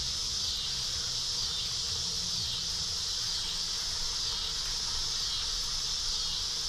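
Cicada chorus: a steady high-pitched drone that swells and fades in slow waves.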